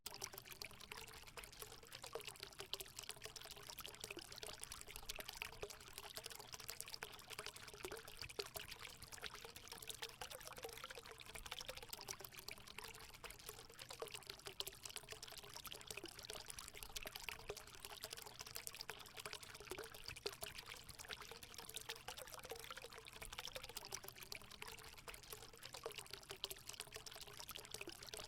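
Water running and pouring steadily into a hot spring pool, a continuous splashing trickle.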